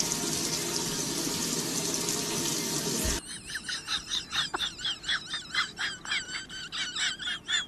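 A steady sizzle of food frying in a pan, which cuts off suddenly about three seconds in. It gives way to a fast run of short, high-pitched chirps or squeaks, several a second.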